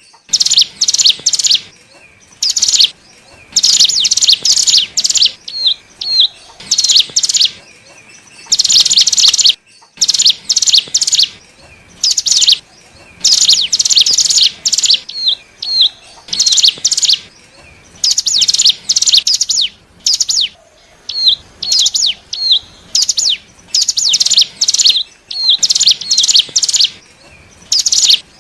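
Ciblek gunung (cigun) singing a lure call: repeated bursts of rapid, high chattering notes, each about half a second to a second and a half long, with brief pauses between them and a few short hooked notes in between. This is a lure song used to draw wild cigun in.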